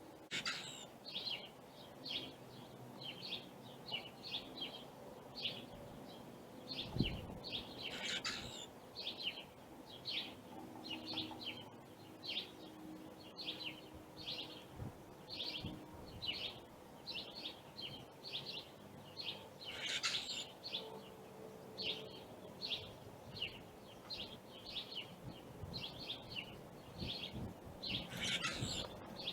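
Small backyard songbirds chirping over and over, several short chirps a second, with a louder, harsher call now and then. A single dull thump about seven seconds in.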